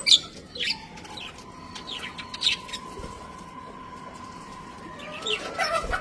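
Budgerigars chirping in short, quick bursts, busiest in the first second and again near the end, with a faint steady tone underneath in the quieter middle stretch.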